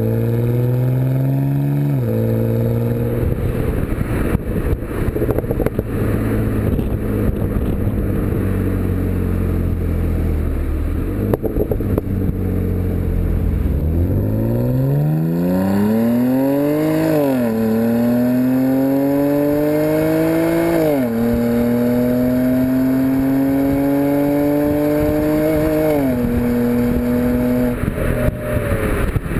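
BMW E90 328xi's straight-six running through a BMW Performance exhaust while driving. Its note rises under acceleration and drops sharply at each automatic upshift: once about two seconds in, then a steadier stretch, then a hard pull from about halfway with three upshifts in quick succession before it settles into a cruise near the end.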